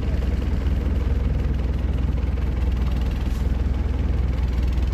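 Boat engine idling steadily with a low, even rumble.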